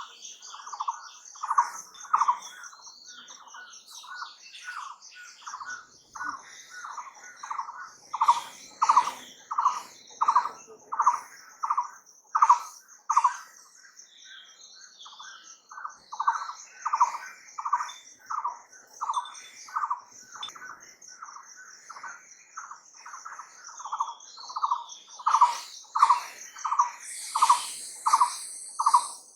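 A bird calling one short note over and over, about twice a second, with a pause of a couple of seconds midway. Behind it runs a continuous high, fine trill.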